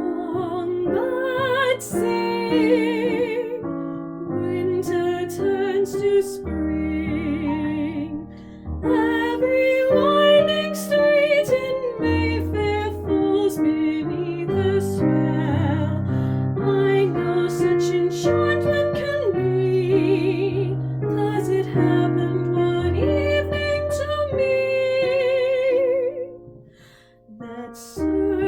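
Slow ballad music: piano with low bass notes under a wavering melody line held with vibrato. It thins to a near pause shortly before the end, then resumes.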